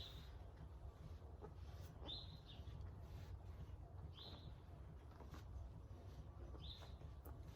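A bird chirping faintly: a short, high chirp repeated four times, about every two seconds, over a low steady hum.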